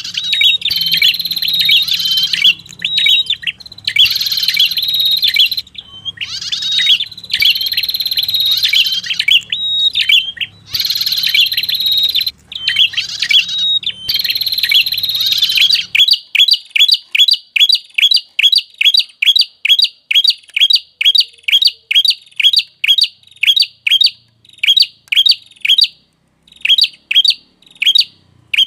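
Bird-lure recording of the prenjak kepala merah: a busy run of high chirping calls over a low hum, switching about halfway through to a fast series of short, sharp chirps, three or four a second, with a few brief breaks near the end.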